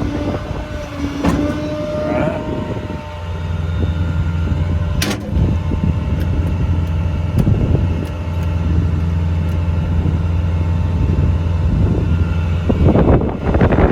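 Ford F550 service truck's engine running with a steady low drone from about three seconds in. A whine changes pitch over the first few seconds, and there is a short click about five seconds in.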